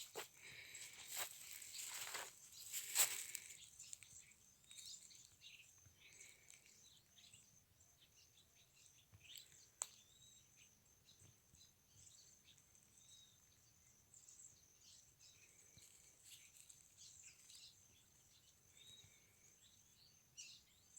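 Faint countryside ambience: scattered small bird chirps over a steady, faint high-pitched tone. There are a few louder rustling noises in the first few seconds and a single sharp click near the middle.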